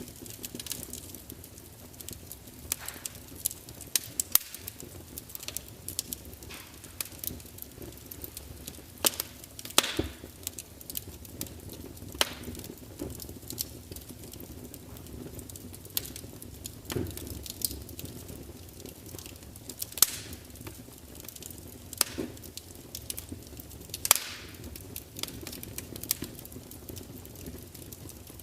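Wood fire burning in a large open fireplace: a low steady rumble of flames with irregular sharp crackles and pops from the burning logs, a few louder snaps standing out.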